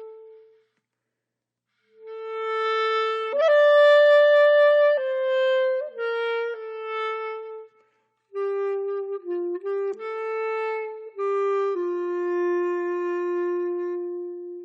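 Background music: a solo clarinet-like woodwind playing a slow melody of held notes in two phrases, with a pause of about a second and a half near the start.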